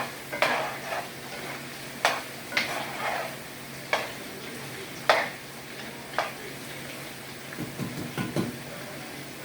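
Homemade fries sizzling in a pot of hot oil while a utensil stirs them, scraping and clinking against the pot about once a second. A quick run of softer knocks comes near the end.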